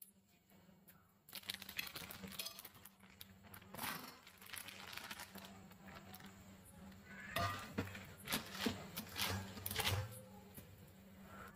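Egg and onion batter sizzling on a hot oiled iron tawa, a steady crackle of oil with many small spatters that starts about a second in. The crackling gets louder and sharper from about seven seconds in.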